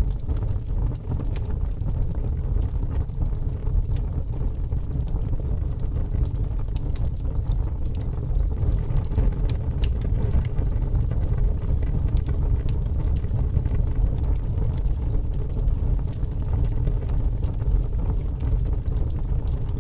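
Wood fire burning steadily: a low rumble of flames with frequent irregular crackles and pops.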